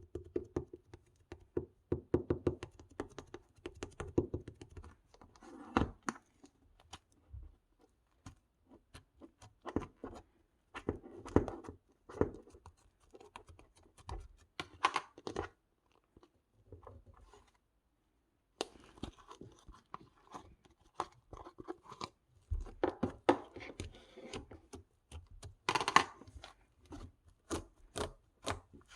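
Irregular crunching and crackling with many sharp clicks and a few dull thuds, in bursts with short pauses, like something being squeezed or handled by hand.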